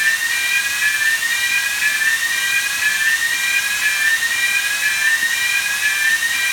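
Steady loud rush of pressurized air with a whistle that glides upward in pitch and starts again about once a second.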